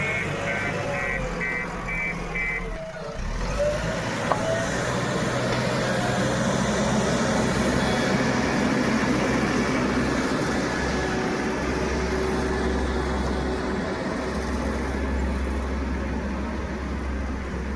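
Diesel engine of an earthmoving machine working steadily, with a reversing alarm beeping about twice a second for the first few seconds before it stops.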